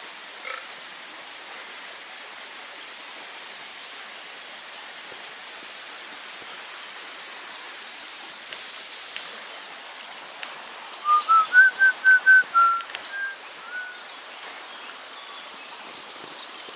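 Steady rush of a river, with a bird singing a quick phrase of about eight clear whistled notes about eleven seconds in. Fainter high chirps from other birds come and go.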